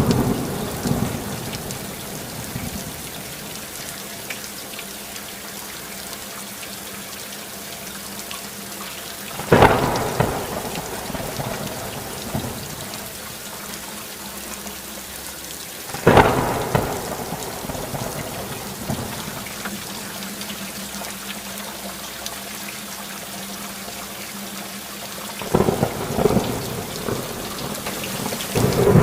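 Steady rain with thunder: a rumble fading out at the start, two sudden thunderclaps about ten and sixteen seconds in, each dying away over a few seconds, and rolling thunder building again near the end.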